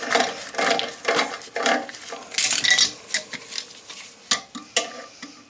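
Rapid metallic scraping and clinking as an excess toilet closet bolt is bent back and forth to fatigue it and snap it off, with a few sharper clicks near the end.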